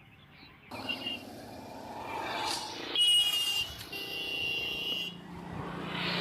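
Road traffic: vehicles passing, each rising and falling in turn, with two vehicle horn blasts, the first and loudest about three seconds in and a second, longer one about a second later.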